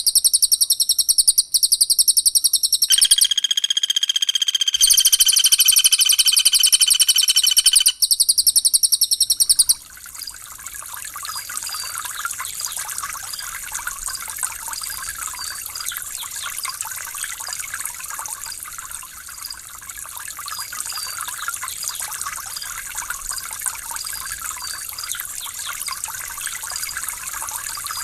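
Recorded bird calls of cililin and pelatuk bawang: very fast, high chattering trills, broken by a steady whistled note for about two seconds, then cutting off after about ten seconds to a softer, steady trickle of running water.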